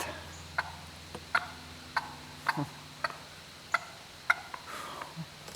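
Wild turkey hen giving repeated sharp alarm putts, about two a second. It is the sign of a hen upset by a dog approaching the flock.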